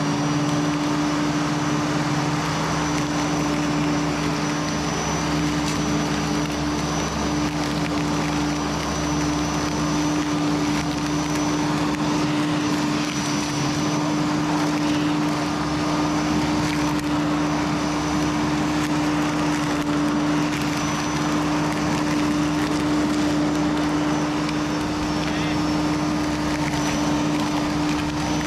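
Flymo plug-in electric hover mower running steadily, a constant hum with a thin high whine above it, from its single bar blade spinning at full speed.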